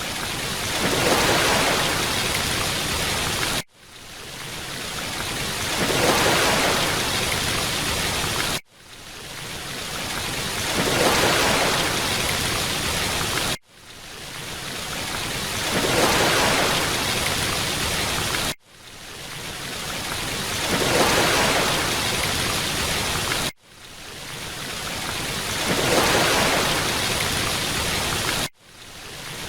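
Rushing water noise from a short sound clip looped about every five seconds: each repeat cuts out abruptly, then swells back up over a couple of seconds and holds steady.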